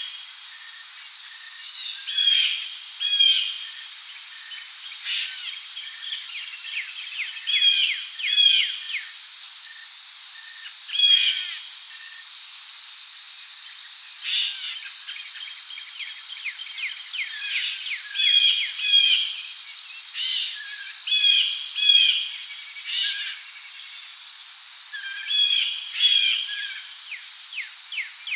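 Rainforest ambience: a steady high-pitched drone of crickets and other insects, with birds chirping in short clusters of quick notes every two or three seconds.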